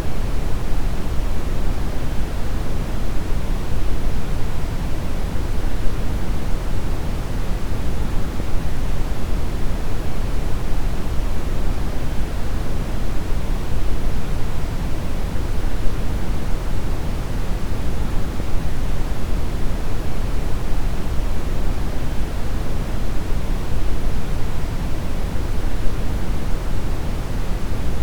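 Synthetic brown noise: a steady, deep rushing hiss weighted toward the low end, with no change over time.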